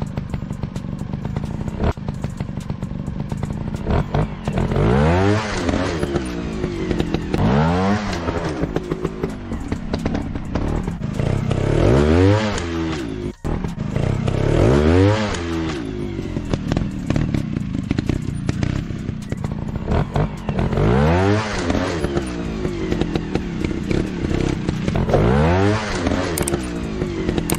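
Dirt bike engines revving hard and dropping back, over and over, about six or seven times, with a running engine in between.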